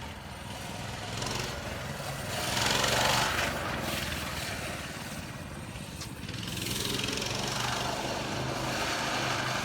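Dirt bike engine running steadily, growing louder about three seconds in and again from about seven seconds on.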